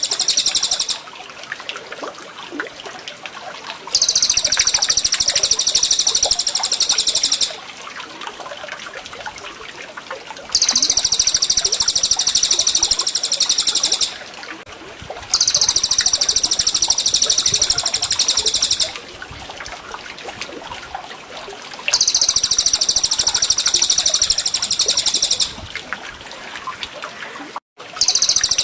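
Caged-bird training recording of cucak jenggot and cililin song: loud, very high, rapid trilling phrases about 3.5 s long, repeating about four times with short pauses between them. In the pauses, a quieter steady trickle of water and faint chirps carry on.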